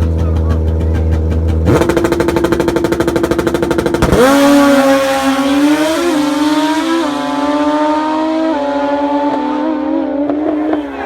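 Racing motorcycle engines: a steady drone, then from about two seconds in a rapid stuttering rev. About four seconds in the pitch shoots up sharply, and the engines then climb through several gear changes as they accelerate away.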